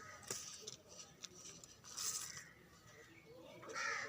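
A block of packed, powdery material crumbling, with crisp, crackly crunches near the start and again about two seconds in. A short pitched call or voice sounds near the end.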